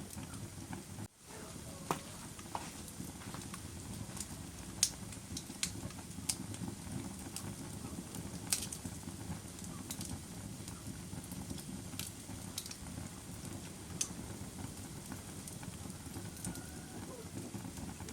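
Wood bonfire crackling: sharp pops and snaps at irregular intervals over a steady low rush of burning. The sound briefly cuts out about a second in.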